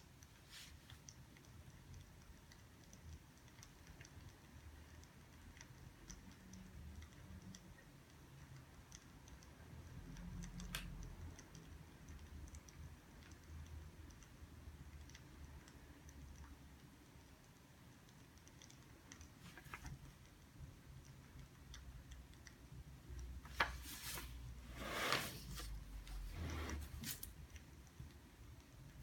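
Faint scattered ticks and small taps of desk work, with a few louder rustling sweeps about three quarters of the way through, like paper or a book being handled.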